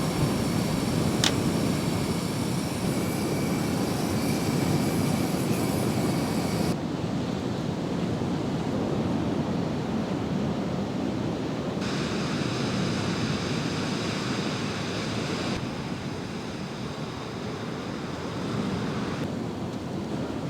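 Ocean surf breaking and washing on the shore: a steady rush of noise, with the background shifting slightly a few times.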